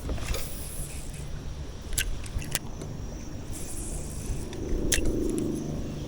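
Fishing rod and reel being cast and worked: short high hisses and a few sharp clicks, over a steady low rumble.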